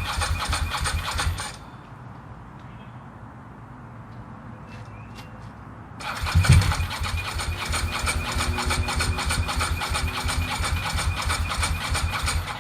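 Ducati 916's L-twin engine being cranked over by its electric starter in two tries: an even, rhythmic cranking that stops about a second and a half in, then starts again a few seconds later and runs on. The engine turns over but does not catch.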